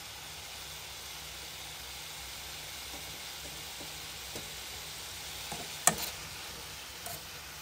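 Chicken and pineapple stir fry sizzling steadily in a pan, with one sharp knock about six seconds in and a fainter one a second later.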